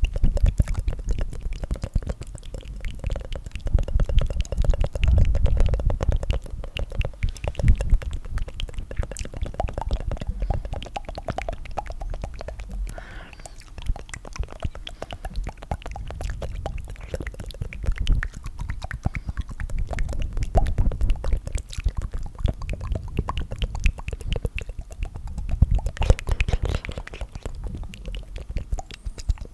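Layered tongue fluttering: many tracks of rapid wet tongue flicks and clicks running together in a dense, continuous flutter, heavy in the low end and swelling and easing in waves.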